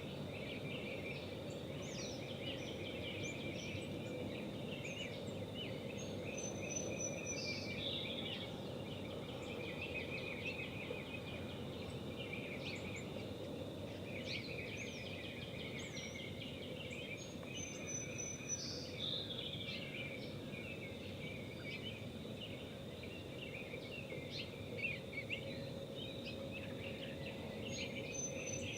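Morning birdsong from several small birds, chirps and trills throughout, with one bird repeating a high phrase that drops in pitch about every ten seconds. A steady low hum and outdoor background noise run underneath.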